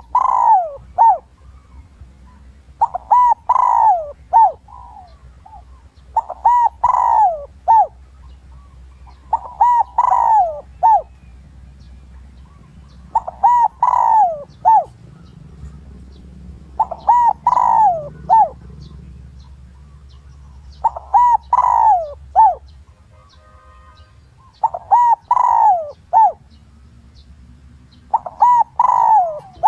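Spotted dove cooing: a decoy male's repeated phrase of a few falling coo notes, nine phrases about three and a half seconds apart. It is a territorial call, used as a lure to draw wild males in to fight.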